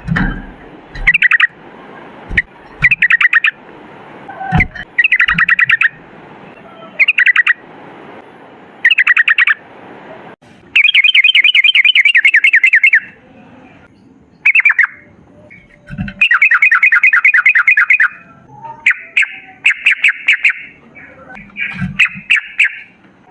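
Yellow-vented bulbul (trucukan) singing in bursts of fast repeated chattering notes, with longer unbroken runs about eleven and sixteen seconds in.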